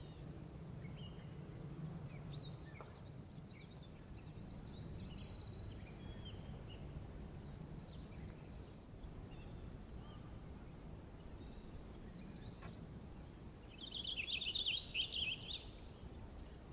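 Outdoor background with a steady low rumble and small birds chirping now and then, high and brief. A louder burst of rapid twittering comes near the end.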